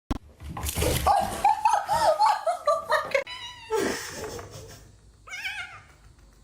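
A pet's wavering cries mixed with a person laughing during the first three seconds, then two short wavering cries, one shortly after the middle and one at the very end.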